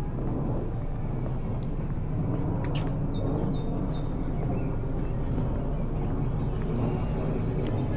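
Outdoor city ambience: a steady low rumble, with a few short, high bird chirps about three seconds in.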